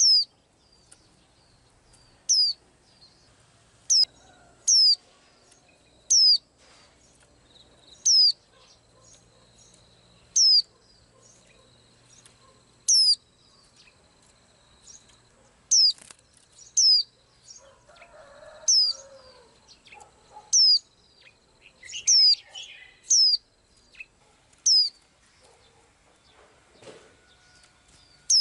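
A small bird calling with short, sharp, high chirps, each a quick downward sweep, repeated at irregular intervals of one to three seconds, with a few softer, lower chirps in between.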